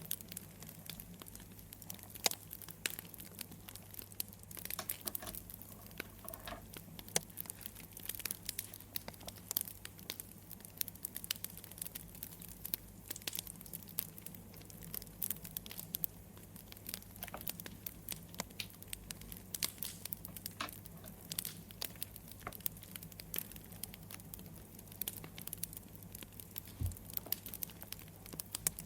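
Campfire wood crackling, with irregular sharp pops and snaps over a steady low hum.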